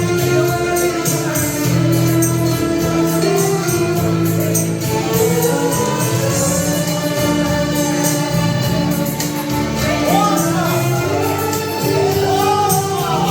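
Music: a violin melody with wide vibrato over steady, sustained accompaniment chords.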